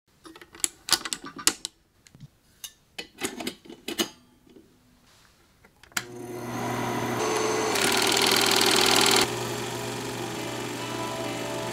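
A run of sharp, irregular clicks, then a switch clicks on a Bell & Howell film projector about six seconds in and its motor starts running, a steady mechanical clatter over a low hum that gets louder for a second or two.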